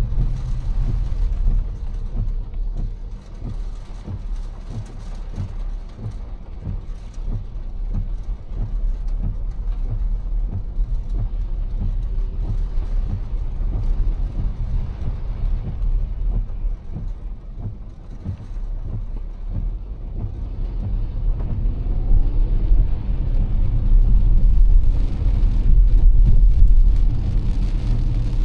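Car driving on a wet road in heavy rain: a steady low rumble of road and engine under a fine patter of rain, growing louder near the end.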